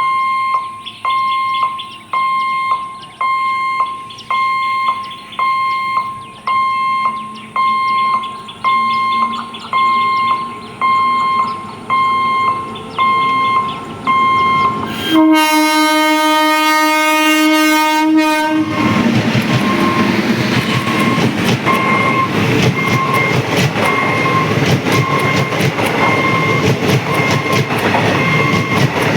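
A level-crossing warning alarm beeps about once a second. About fifteen seconds in, a train horn sounds one long blast of about three and a half seconds. A train then rushes past with its wheels clattering over the rail joints, the alarm still beeping beneath it.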